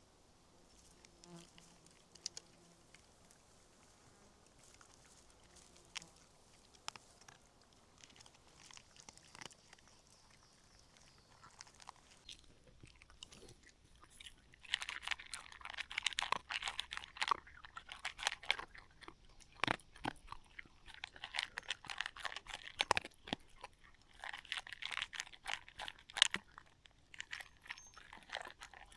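Crunchy chewing heard close up. It starts about halfway in, after a quiet stretch with a few faint ticks, and goes on in bursts.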